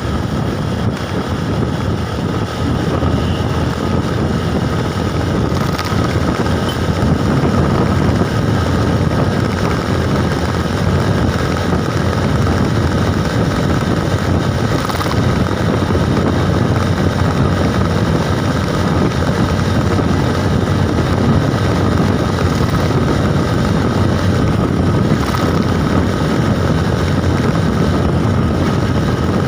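Steady rush of wind on the microphone and road noise from a moving bike, with a faint steady high tone underneath.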